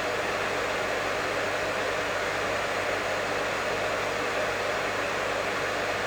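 Professional hair dryer running continuously: a steady, unchanging rush of air with a low motor hum underneath.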